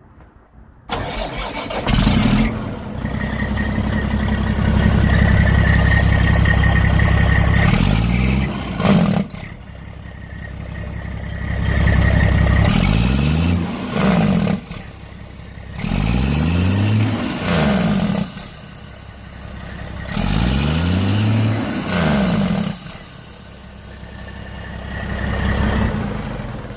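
Straight-piped Detroit Diesel 12.7 inline-six truck engine starting about a second in, then running fast and being revved up and back down four times, falling back toward idle between revs.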